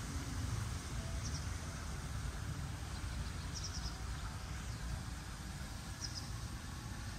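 Outdoor ambience: a steady low rumble, with a small bird giving three short runs of high chirps, about a second in, near the middle and near the end.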